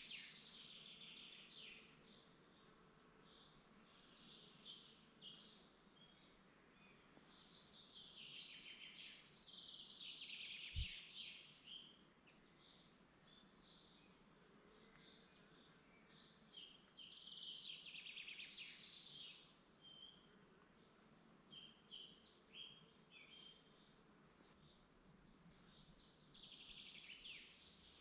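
Songbirds singing faintly in woodland: high, quickly repeated song phrases a few seconds long, coming every several seconds over a soft background hush. One brief low thump about eleven seconds in.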